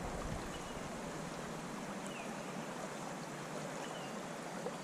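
Steady rush of a creek's running water, with a few faint short high chirps.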